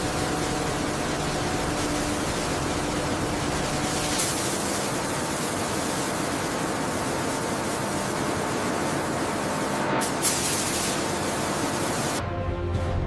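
Compressed-air paint spray gun hissing steadily, with brief louder surges about four seconds in and again about ten seconds in. Music comes in near the end.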